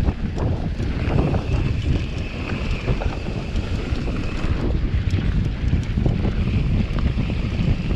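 Turbo-diesel vehicle running under way with heavy wind buffeting on the microphone: a continuous low rumble with a faint steady high whine on top.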